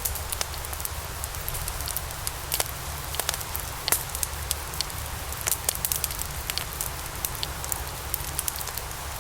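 Wood fire of burning logs crackling: irregular sharp pops and snaps over a steady low rumble and hiss of the flames.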